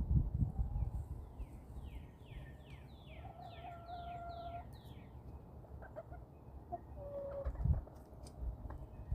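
Backyard hens calling, with one drawn-out call a few seconds in and a shorter one later. A wild songbird sings a quick run of about eight high falling notes at the same time, and there are a couple of low rumbling bumps.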